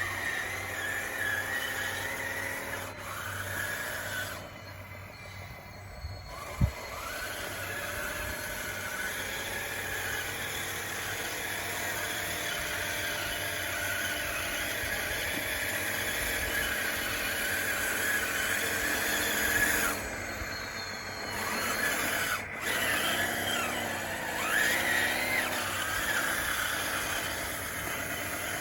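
Scale RC bulldozer's electric motors and gearboxes whining as it works, the pitch rising and falling with the throttle, with a sharp click about six and a half seconds in.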